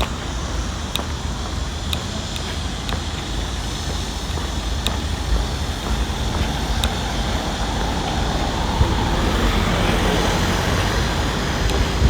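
Road traffic: a vehicle passing, swelling to its loudest about ten seconds in, over a low wind rumble on the microphone.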